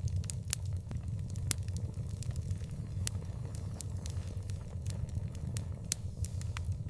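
Wood fire in an outdoor fireplace crackling: sharp, irregular pops and snaps, several a second at times, over a steady low rumble.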